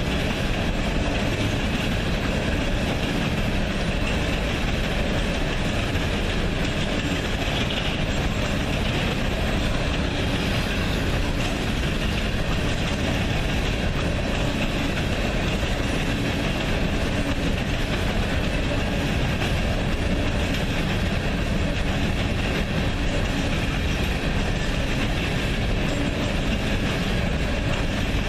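A train's railroad cars rolling past on the track, a steady noise that holds unchanged throughout.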